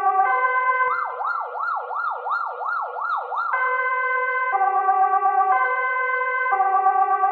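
Electronic emergency-vehicle siren. A two-tone hi-lo pattern alternates about once a second, switches about a second in to a fast yelp sweeping up and down nearly three times a second, then goes back to the hi-lo tones.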